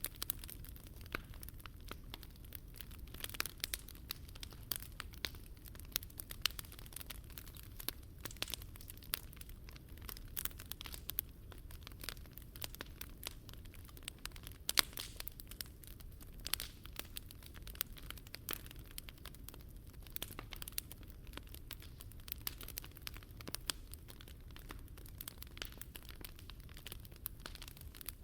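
Wood fire in a Picogrill 398 fire stand crackling and popping with many irregular sharp snaps, over a steady low rumble.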